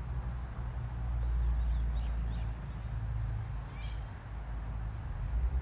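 A few faint, short, high bird chirps over a steady low rumble.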